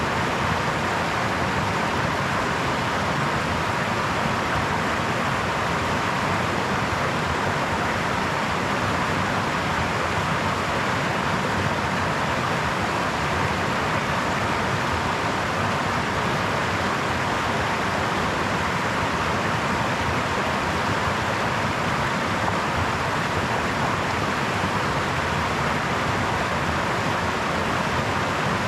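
Brook water babbling over stones: a steady, unbroken rush with no changes.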